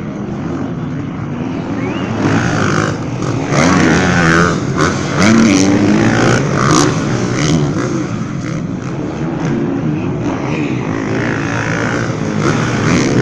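Motocross dirt bike engines revving, pitch rising and falling as the throttle opens and closes, getting louder about two seconds in.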